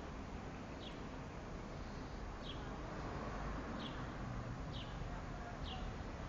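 A small bird chirping: short, high, falling chirps about once a second over a steady background hiss.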